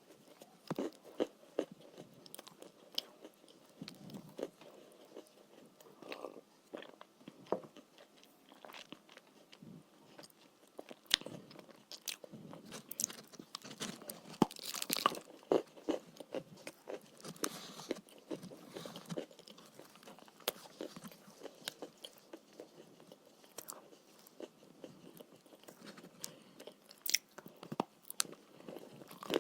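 Chalk being bitten and chewed: irregular sharp crunches and crumbling, thickest about halfway through.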